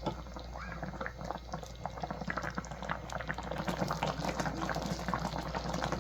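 Thick, flour-thickened stew gravy bubbling on high heat, with many small irregular pops and blips that grow a little denser and louder over the few seconds.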